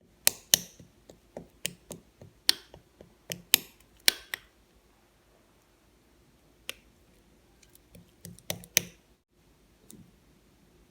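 Slime being played with by hand, giving sharp, irregular clicks and pops: a quick run of them over the first four seconds, a single one after a pause, then another short cluster near the end.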